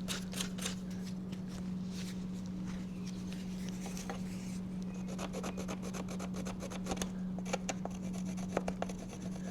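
Wooden stakes being handled and fitted together by hand: light rubbing and scraping with scattered small clicks and knocks, over a steady low hum.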